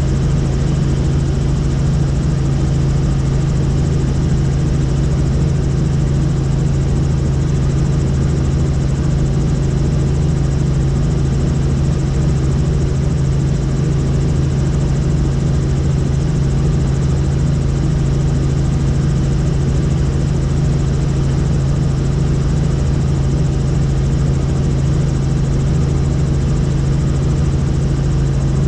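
Helicopter in flight: a loud, steady drone of engine and rotors, with a strong low hum that holds one pitch throughout.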